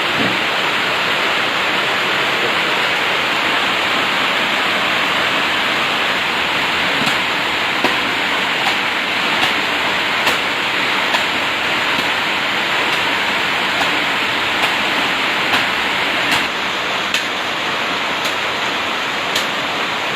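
Rain falling in a steady hiss, with sharp ticks roughly once a second in the second half.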